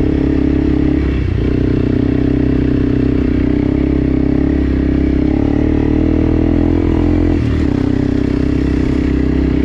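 Enduro dirt bike engine running steadily while riding, with brief shifts in its note about a second in and again at about seven and a half seconds.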